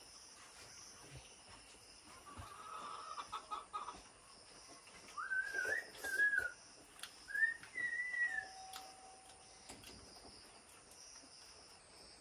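Faint bird calls: a few short calls that rise and fall, about halfway through, over a steady high insect hum.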